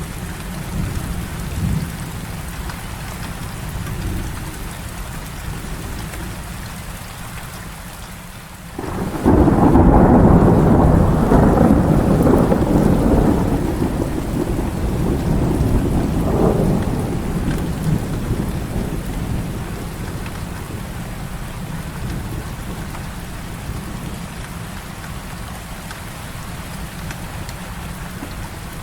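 Heavy rain falling steadily. About nine seconds in, a thunderclap breaks in suddenly and rolls on for several seconds with a second swell, then fades back under the rain.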